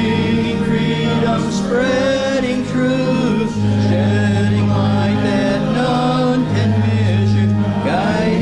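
Congregation singing a hymn together, with an instrumental accompaniment holding long low bass notes that change every few seconds.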